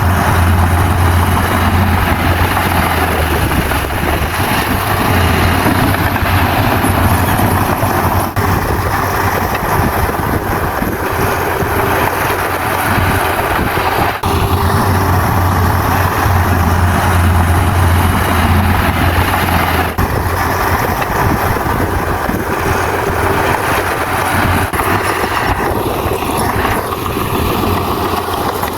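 Bulldozer's diesel engine running at work, a loud steady low drone that grows stronger and weaker over stretches of several seconds.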